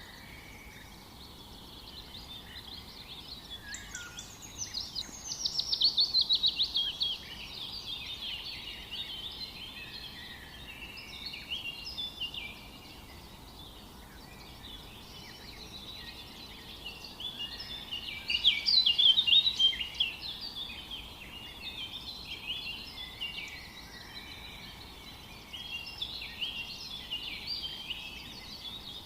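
Several songbirds singing over each other in a forest chorus. A loud, rapid trill falls in pitch about five seconds in, and a loud burst of song comes near the middle.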